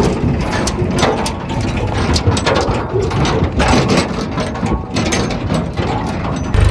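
Irregular metallic clattering and rattling of farm machinery. Near the end a steady, louder engine running cuts in abruptly.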